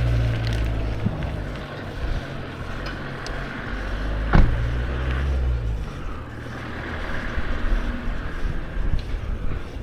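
Wind rushing over the microphone and a mountain bike rattling down a trail, with one sharp knock about four and a half seconds in. The low rumble eases after about six seconds.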